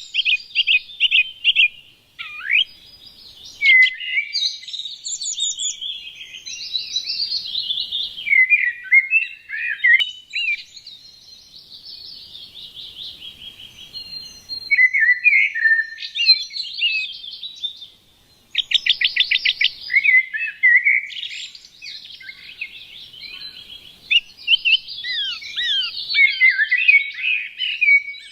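Small songbirds singing and chirping: a busy, varied run of quick chirps, whistled glides and rapid trills. The song pauses briefly about two seconds in and again past the middle, where a fast trill starts.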